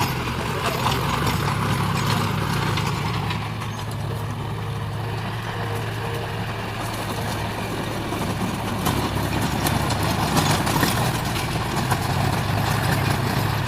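John Deere tractor's three-cylinder diesel engine running steadily, a little quieter for a few seconds in the middle.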